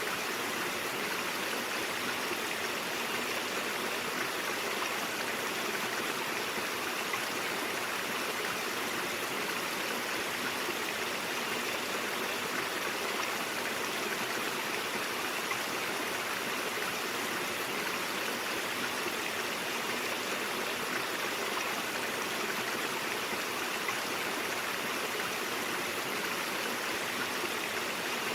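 A stream of water flowing steadily over rocks, an even rushing and babbling with no breaks.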